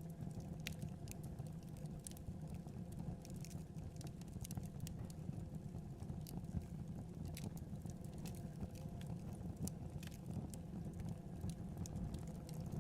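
Wood fire burning in a fireplace: a steady low rumble of the flames with frequent irregular crackles and small pops.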